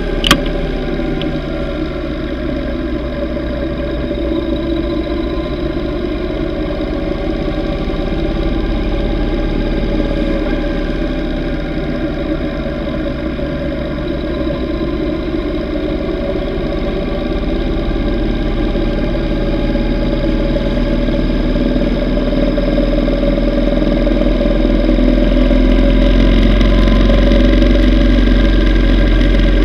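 Yamaha V Star 950's V-twin engine running while riding, its pitch drifting slowly up and down with road speed and growing louder over the last few seconds. A sharp click comes just after the start.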